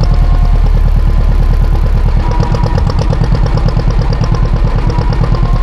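John Deere 530 tractor's two-cylinder engine running steadily, with a fast, even beat of firing pulses.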